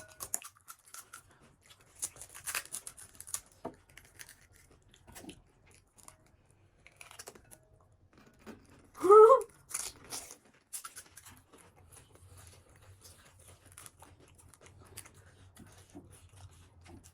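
Crisp panipuri shells crackling and crunching as they are bitten and chewed, in scattered sharp clicks and crackles. About nine seconds in comes a short, loud vocal cry with a rising pitch.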